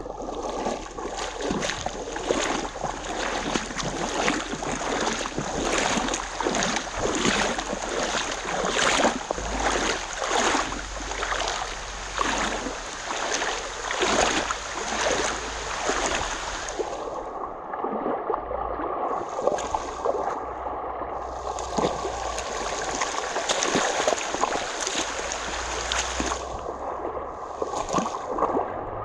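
Mountain creek water rushing and splashing over rocks, a steady rush with frequent irregular surges.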